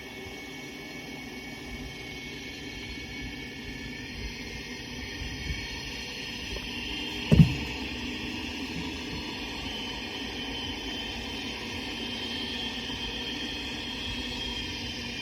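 Underwater noise of a small motorboat's engine and propeller about 1.7 km off, heard through a hydrophone: a steady hum with whining tones that grows gradually louder as the boat speeds up. A single low thump about halfway through.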